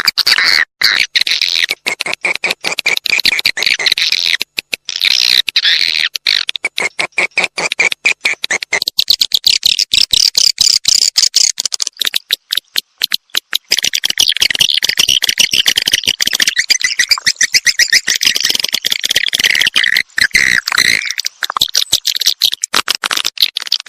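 Recorded swiftlet calls: dense, rapid chattering trains of clicks and chirps, played back as a lure sound to draw edible-nest swiftlets to a nesting house. Brief gaps break the trains now and then.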